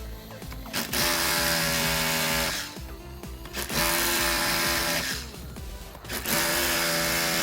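Power drill running in three bursts of about a second and a half each, with a steady whine, over background music.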